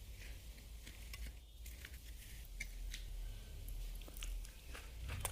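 Close-miked eating sounds of appam with fish stew: scattered soft clicks and small wet smacks from mouth and food, over a steady low hum.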